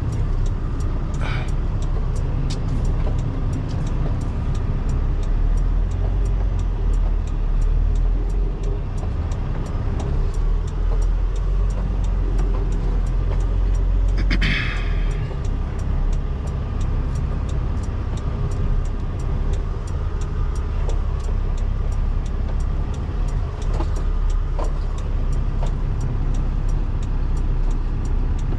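Semi truck's diesel engine running steadily with a low rumble in the cab while the tractor-trailer is maneuvered, with a brief higher-pitched sound about halfway through.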